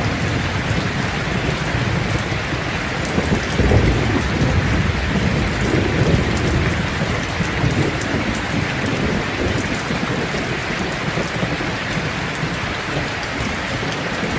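Steady, heavy rain pouring, with low rolling thunder rumbling underneath that swells a few seconds in.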